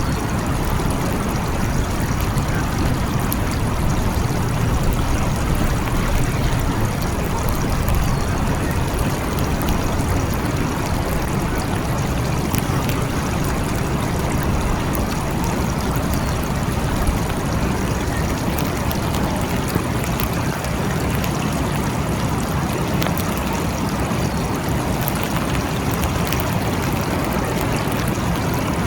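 Steady rain falling, with scattered sharp drip ticks over it and a low rumbling undertone.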